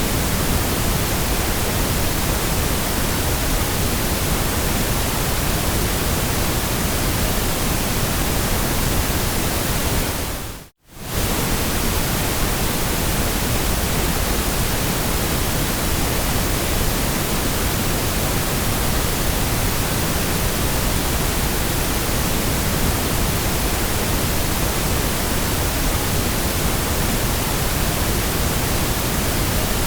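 Steady white noise: an even, full-range hiss at a constant level. It fades out to silence and straight back in for under a second, about eleven seconds in.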